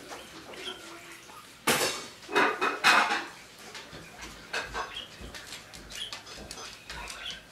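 Cockatiels chirping now and then, with three loud, harsh noises close together about two to three seconds in.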